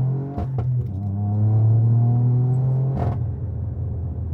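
Straight-piped Toyota GR Yaris turbocharged three-cylinder engine accelerating hard with anti-lag active, its note climbing steadily. Sharp bangs come about half a second in and again about three seconds in, after which the engine settles to a lower, rougher rumble.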